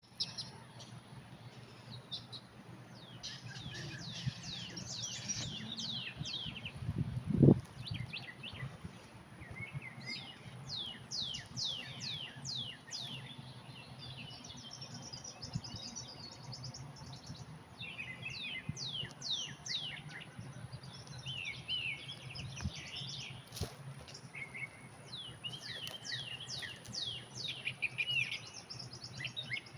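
Wild birds singing and calling, with repeated runs of quick downslurred chirps over a steady low rumble. A single loud thump about seven seconds in.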